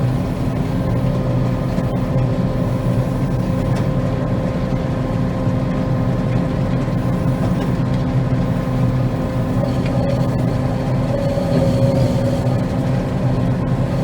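Combine harvester running steadily under load while cutting soybeans: an even engine drone with a constant pitch.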